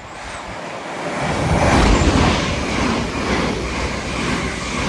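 Two coupled Class 387 electric multiple units passing through the station at speed: the rushing noise of wheels on rail builds to a peak about two seconds in and stays loud as the train runs past.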